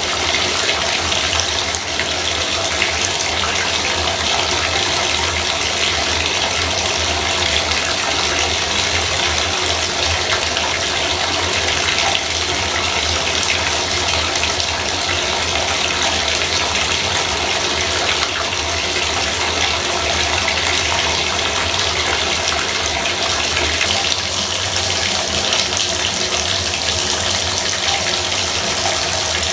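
Bathtub faucet running steadily, water splashing into the tub, with a low hum underneath.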